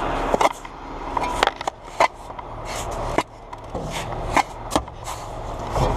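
Shovels digging and scraping in dirt, with irregular sharp knocks of the blades striking, about seven in all, over a low steady hum.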